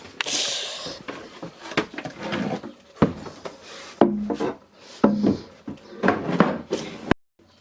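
Irregular knocks, clicks and rubbing of tools and parts being handled while changing the raw-water pump impeller on a marine diesel. A short hiss comes near the start, and the sound cuts off abruptly near the end.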